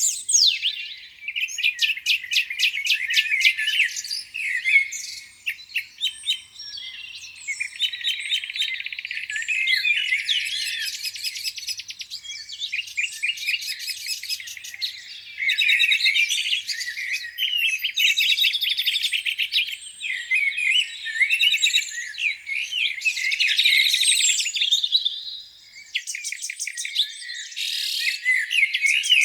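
Several songbirds singing at once: dense, overlapping chirps, rapid trills and warbling phrases that keep changing, all high-pitched with no low sound beneath them.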